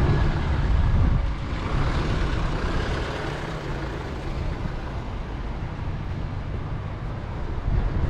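Strong gusty wind rumbling on the microphone, a low roar that is loudest in the first second and eases slightly after.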